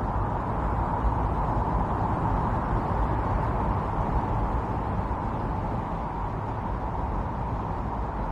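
Strong winter storm wind blowing steadily: an even rushing noise with a low rumble beneath.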